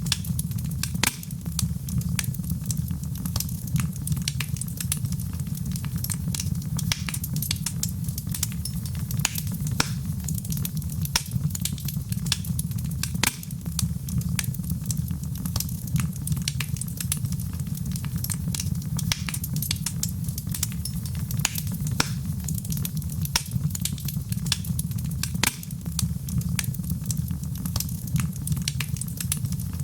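Fireplace fire crackling: frequent sharp snaps and pops over a steady low rumble of the flames.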